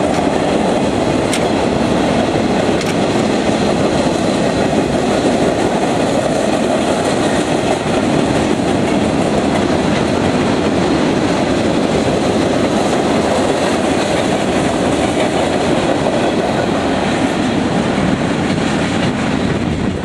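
CSX freight train's cars rolling past, loud and steady, with the clack of wheels over the rail joints.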